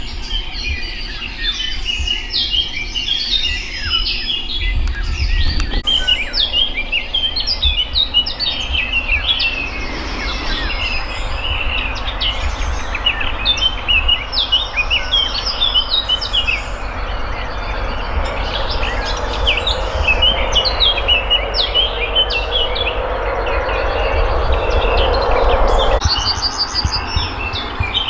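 Many small songbirds chirping and singing at once in a dense, continuous chorus. Under it a rushing noise swells through the second half and cuts off suddenly near the end, with a low rumble throughout.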